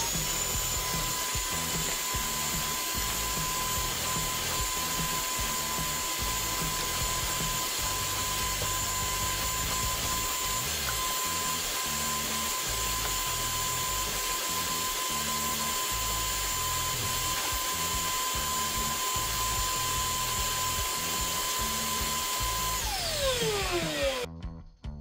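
Homemade electric carpet shearing tool running with a steady high-pitched whine as it trims the pile of a tufted rug, then spinning down with a falling pitch and stopping near the end.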